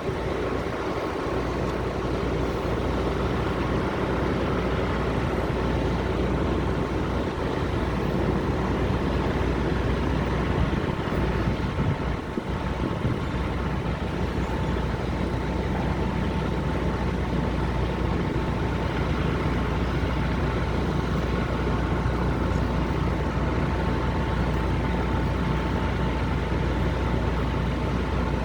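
Steady idling drone of parked diesel semi-trucks: a low hum with a thin, constant whine held over it.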